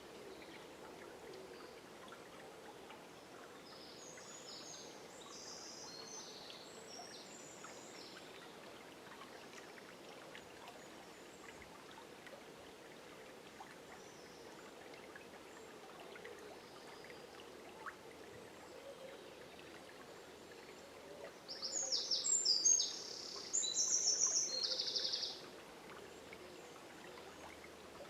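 River water running steadily, with songbirds singing: a faint song about four seconds in, and a louder song in two phrases near the end.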